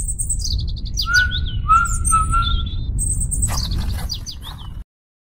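Birds chirping and calling: quick high chirps with a clearer whistled note in the middle, over a steady low rumble. The sound cuts off suddenly near the end.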